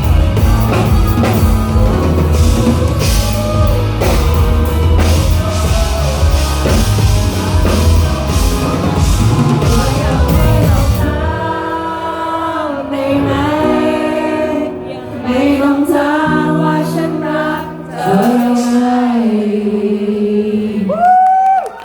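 Live rock band playing loudly with drums, bass and singing. About eleven seconds in, the drums and bass drop out, leaving the singing over lighter accompaniment.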